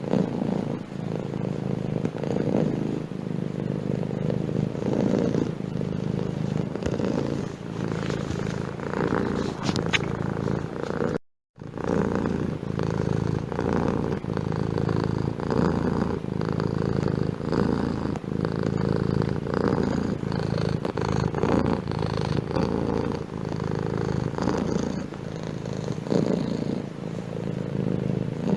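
Domestic cat purring close to the microphone, the purr swelling and fading with each breath in and out. The sound cuts out completely for a moment a little over a third of the way through, then the purring carries on.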